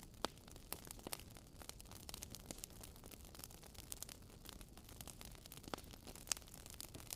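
Wood fire crackling: a soft steady hiss with irregular sharp pops and snaps, two of them louder, one just after the start and one late.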